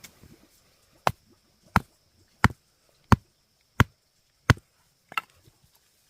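Chopping with a blade: seven even, sharp strikes about two-thirds of a second apart, the last one weaker.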